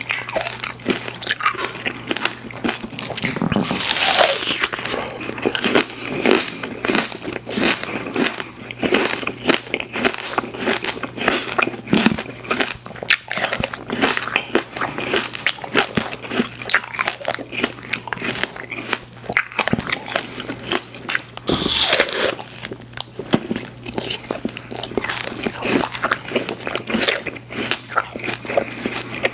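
Close-miked mouth sounds of a person chewing soft, chewy sweets, with continual wet smacks and clicks. There are louder bites about four seconds in and again about twenty-two seconds in.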